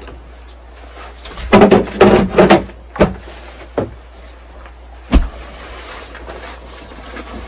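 A greenhouse door being opened and shut: a loud squeaky scrape a second and a half in, a couple of knocks, then a sharp thump about five seconds in.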